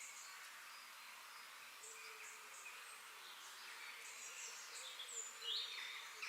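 Nature ambience: a steady high hiss of insects with short, high chirps repeating, and a bird calling briefly about five and a half seconds in, the loudest sound.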